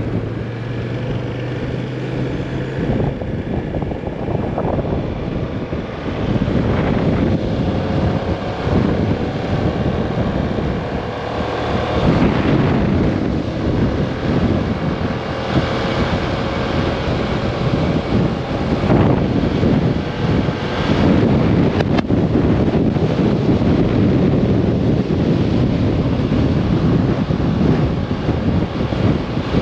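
Strong wind buffeting the microphone of a Kymco AK 550 maxi-scooter on the move, in gusts, with the engine's hum underneath.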